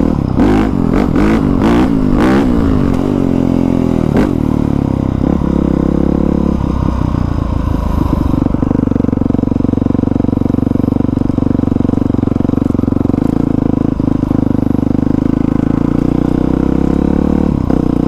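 Dirt bike engine running: for the first few seconds its pitch rises and falls as the throttle is worked, then it holds a steady pitch.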